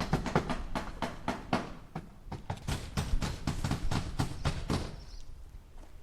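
Hammer striking nails into wood in a quick run of taps, about five a second, stopping about five seconds in. Faint short high chirps follow near the end.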